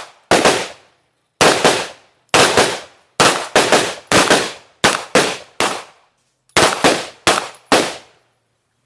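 Gun fired rapidly with a forced-reset trigger: about twenty shots in quick strings of three to six, roughly five shots a second, with short pauses between strings, stopping near the end.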